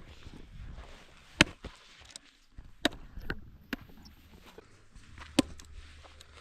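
Several sharp, separate clicks and knocks at irregular intervals, about five in all.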